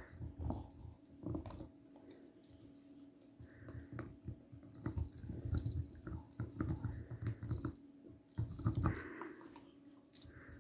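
Dogs chewing and gnawing on their toys: irregular wet chewing and biting clicks, coming in uneven bouts.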